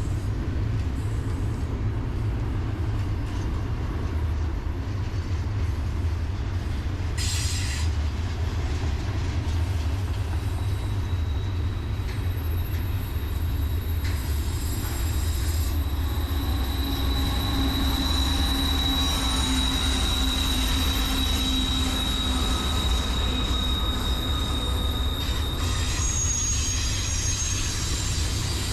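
Freight train rolling by with a steady low rumble. Its steel wheels squeal in a high steady tone from about halfway in until near the end. A brief hiss comes about a quarter of the way in.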